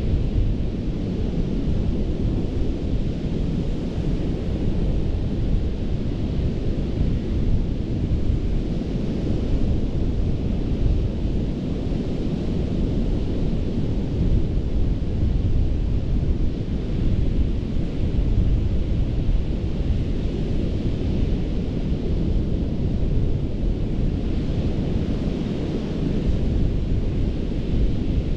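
Ocean surf breaking and washing up a sandy beach, a steady deep rumble with a hissing wash that swells and eases every several seconds.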